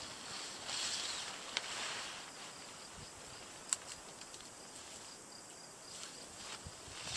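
Quiet outdoor woodland ambience: a faint steady high hiss with two small sharp ticks, one early on and one nearer the middle.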